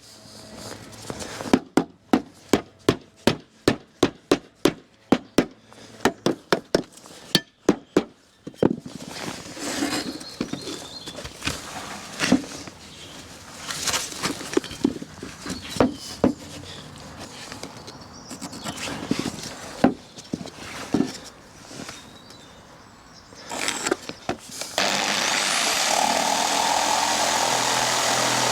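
Construction tool sounds: a run of sharp, evenly spaced strikes, about two a second, then scattered knocks and clatter, and near the end a power tool starts and runs steadily.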